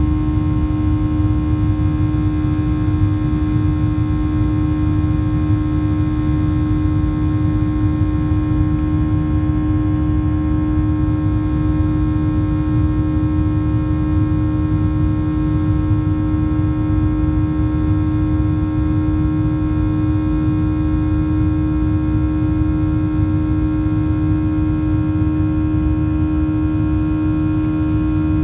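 Cabin drone of a Boeing 737-800 in flight, its CFM56-7B turbofan engines running steadily: a constant low rumble with a strong steady hum and fainter whining tones above it.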